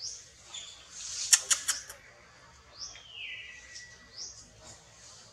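Birds calling in the tree canopy: a short rising chirp repeats every second or so, and a whistle falls and then holds about three seconds in. The loudest sound is a quick run of four sharp clicks about a second and a half in.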